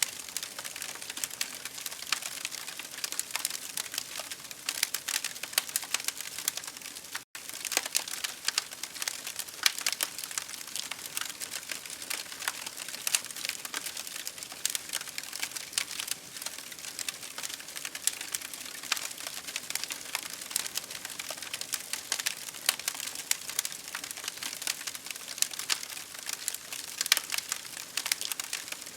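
Campfire burning, crackling with a dense, irregular run of sharp snaps and pops over a steady hiss. The sound cuts out for a split second about seven seconds in.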